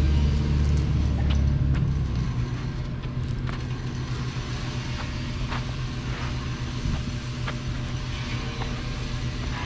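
A steady low mechanical rumble, louder for the first two seconds and then settling lower, with scattered light clicks and knocks.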